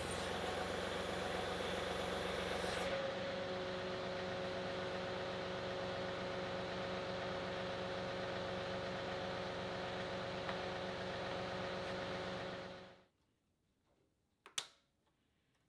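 John Deere 2038R compact tractor's diesel engine running steadily while its hydraulics are worked. It stops abruptly about 13 seconds in, followed by near quiet and a single sharp click near the end.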